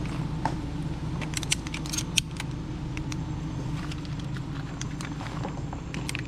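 A motor running steadily with a low hum, with scattered light clicks and rattles over it.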